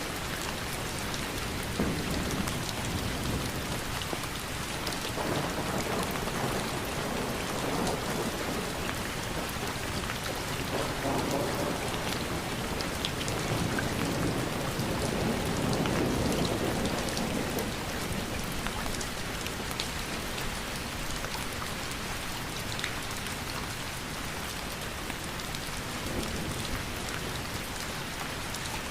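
Steady rain falling, with scattered sharp drop ticks; it swells a little louder and deeper a few times through the middle.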